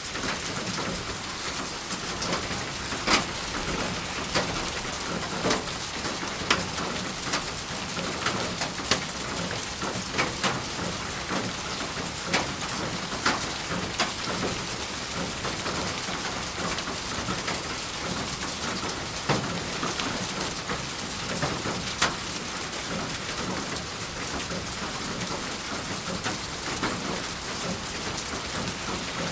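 Steady rain falling, an even hiss with many separate drops hitting a surface close by at irregular moments.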